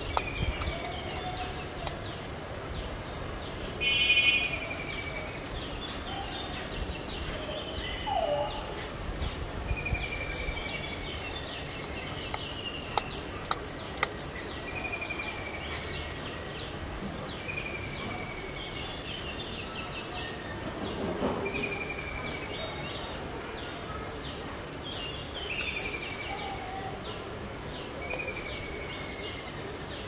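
Birds calling in foliage: a short falling whistled note repeats every couple of seconds. A brief harsher call comes about four seconds in, over clusters of high ticking.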